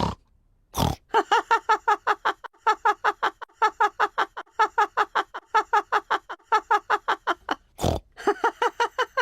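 Cartoon pig voices laughing in a rapid run of short pitched pulses, about five or six a second, with a sharp noisy burst just before the run starts and another near the end.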